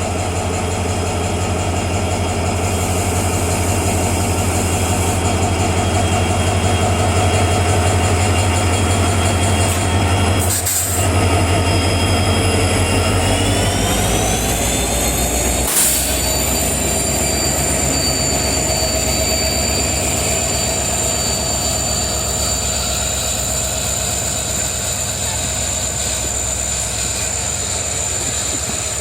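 Koyna Express passenger train moving slowly out of the station, its locomotive humming steadily. About halfway through, a set of whining tones glides up in pitch and then holds steady, with a brief sharp knock just after.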